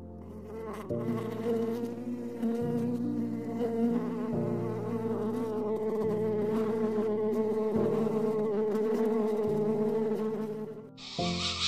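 An insect buzzing in flight: a steady, slightly wavering drone that starts about a second in and fades out near the end, over soft background music.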